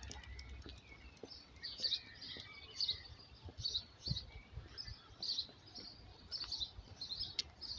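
Birds chirping, short high calls repeating every half second to a second, over a steady low rumble of outdoor background noise.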